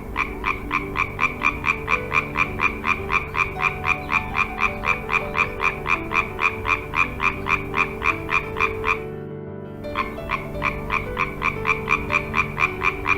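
A frog calling in a rapid, even train of short croaks, several a second. It breaks off for about a second near nine seconds in and then resumes, over a steady low drone.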